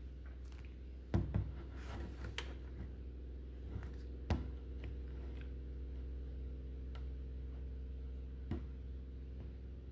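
Indesit washing machine running: a steady low motor hum with a few scattered knocks and clicks, the loudest about a second in and again about four seconds in.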